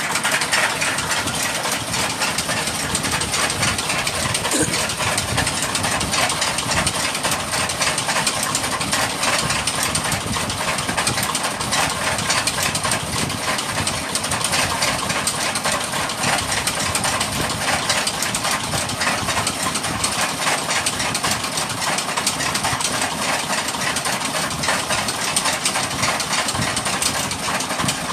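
A motor or engine running steadily, with a rapid, continuous knocking rattle.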